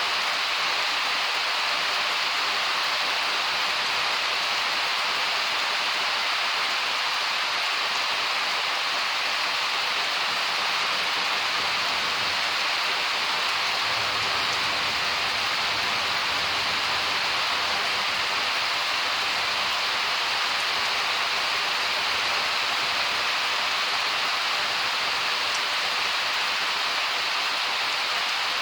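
Summer thunderstorm rain falling steadily, an even, dense hiss of rain on surfaces with no let-up.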